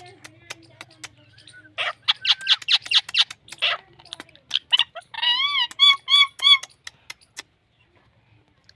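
Pet talking parrot chattering and clicking in quick bursts, then giving a few short, warbling whistled notes about five seconds in.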